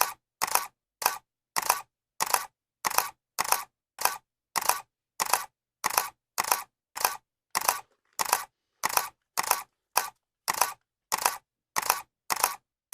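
Camera shutter clicking over and over at a steady pace, a little under two clicks a second, each click a quick double snap with silence between.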